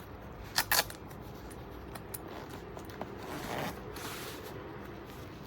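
Leather combat boot's side zipper being handled: two sharp clicks in quick succession under a second in, then a short rasp about three and a half seconds in.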